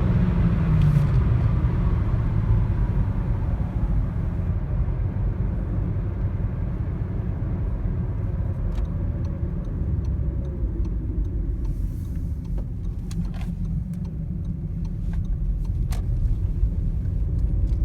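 Audi A1 1.4 TFSI turbocharged four-cylinder car at speed: the engine note falls over the first couple of seconds as the car slows after the run, then gives way to a steady low road and wind rumble. A few sharp clicks come in the second half.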